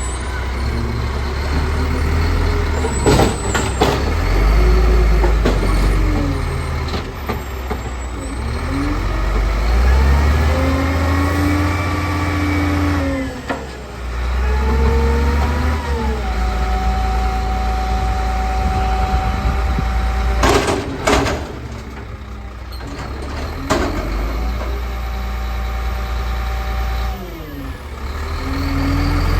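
Garbage truck's diesel engine revving up and down several times as it works, with a steady whine held for a few seconds midway. Sharp hisses of air brake release come near the start and again about two-thirds of the way through.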